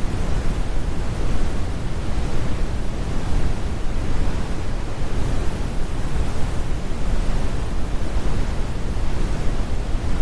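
Synthetic brown noise: a steady, deep rumbling hiss with no events, heavy in the lows and with the highs rolled off.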